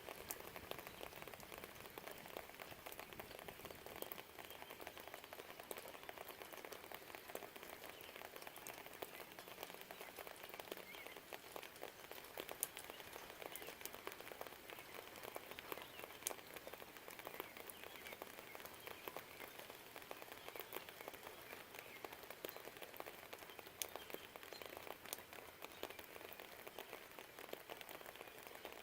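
Steady rain falling: a dense, faint spread of many small drop ticks, with a few sharper single drips standing out about 12 and 16 seconds in.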